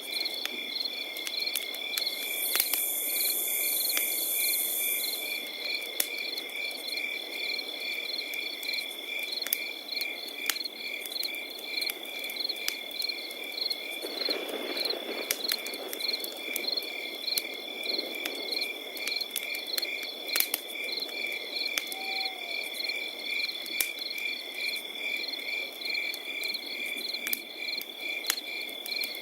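Crickets chirping in a steady, even pulse over a crackling campfire, whose pops come as scattered sharp clicks. A higher-pitched insect trill joins briefly a few seconds in.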